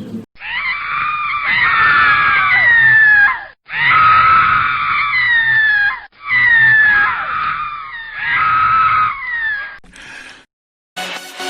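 Screaming sound effect: high-pitched screams in four long bursts with short breaks between them, the pitch sliding down within each burst.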